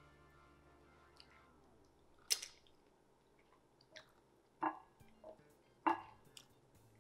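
Eating fufu by hand: soft chewing and mouth sounds with a few short, sharp clicks, the sharpest about two seconds in and two more near the end.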